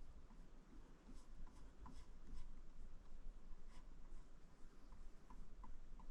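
Faint scratchy strokes of a paintbrush working oil paint onto a canvas, with a few light ticks.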